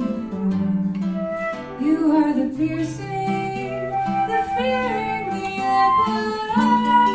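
Live song performance: a woman singing over acoustic accompaniment of flute with plucked and percussive instruments, with held notes and a wavering melodic line.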